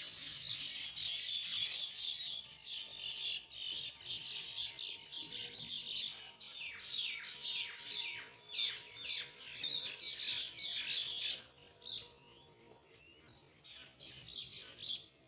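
Baya weavers chattering: dense runs of short, high, quickly falling chirps that thin out near the end.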